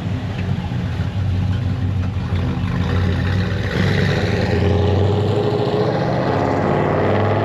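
Car engine running with a low, steady rumble, revved up a little about three seconds in so that it grows louder and slightly higher.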